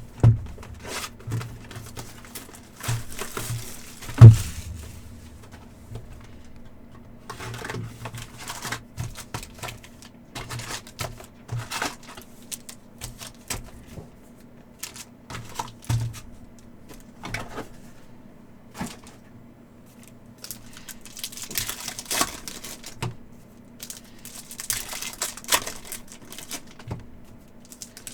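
Trading-card packs and cards being handled on a table: a run of quick clicks and taps as cards are flicked and stacked, with bursts of wrapper crinkling and rustling. One loud thump comes about four seconds in.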